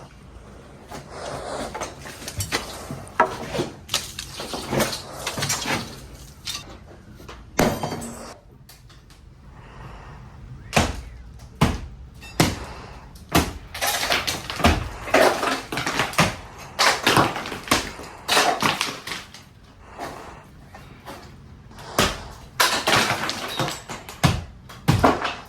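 Irregular bangs, knocks and rattles of demolition debris falling and being handled, with scraping noise between the impacts.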